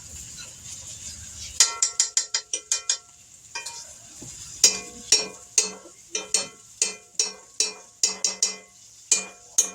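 A metal utensil clanking and scraping against a skillet of frying chicken: runs of sharp ringing clinks, several a second, starting about a second and a half in, over the faint steady sizzle of the oil.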